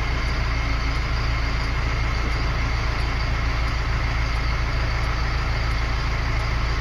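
Engine of a self-loading concrete mixer truck idling steadily.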